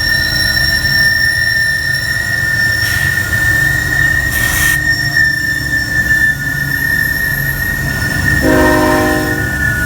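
Norfolk Southern freight train rolling by with a steady high-pitched wheel squeal over the low rumble of the cars. Near the end a short horn blast sounds for about a second.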